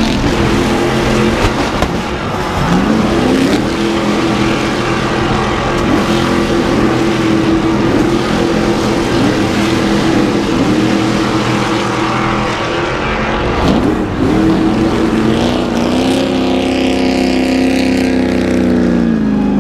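Race truck engines running hard past the listener, their pitch climbing steadily through each gear and dropping sharply at each shift or lift, with several engines overlapping. The loudest, clearest drop in pitch comes near the end.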